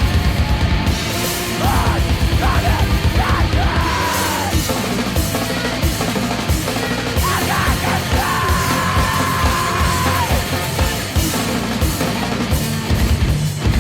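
Loud, heavy screamo-style rock music: fast, dense drumming with a rapid kick drum under distorted guitars, with shouted vocals.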